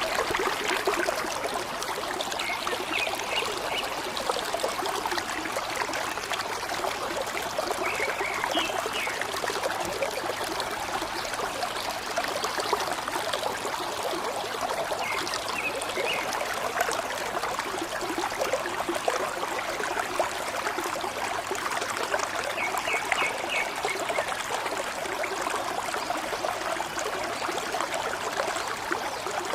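Steady gurgling and trickling of a small stream, with a few short bird chirps over it several times.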